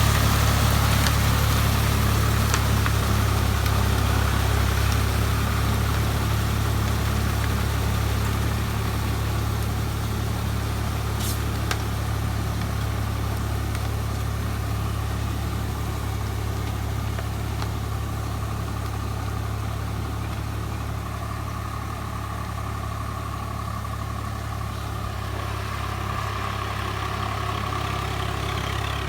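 Swaraj 744 FE tractor's three-cylinder diesel engine running steadily, its sound slowly fading through most of the stretch and growing a little louder near the end.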